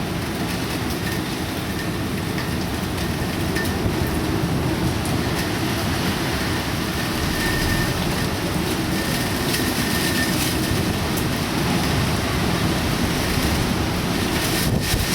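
Typhoon wind and rain: a loud, steady roar with no breaks.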